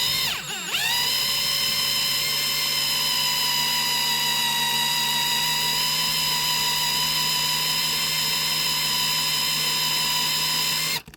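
Electric drill speeding up over the first second, then running at a steady high whine while drilling out a base-fixing post on a diecast toy car, stopping suddenly just before the end.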